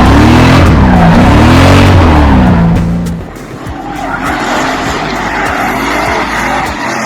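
Drift car's engine revving hard, its pitch swinging up and down over and over as the car slides with tyre squeal; about three seconds in it drops away to a fainter engine and tyre noise.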